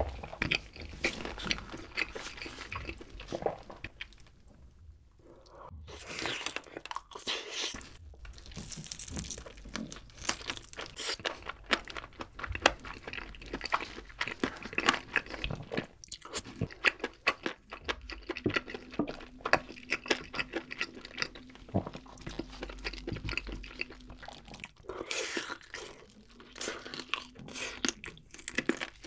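A person chewing and biting into barbecue-glazed chicken, with close, irregular crunching and mouth sounds, and a short lull a few seconds in.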